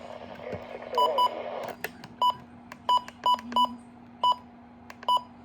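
Sangean H201 weather radio giving short electronic beeps, about eight of them at uneven intervals, with a click early on as the warning broadcast ends.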